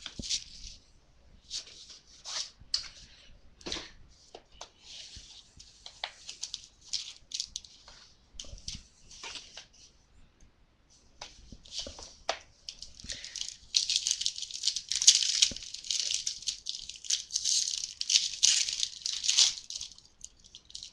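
Plastic wrapping crinkling and tearing as a sealed trading-card box and its pack are opened by hand, with scattered light knocks of handling. The crinkling comes in uneven bursts and grows busier and louder in the second half.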